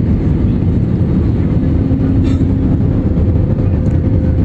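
Airplane landing: a loud, steady low rumble, with a faint steady hum running through it.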